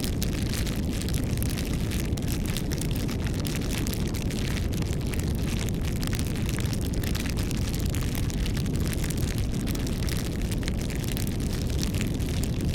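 Wood fire burning: a steady low rumble of flames with frequent small crackles and pops from the burning wood.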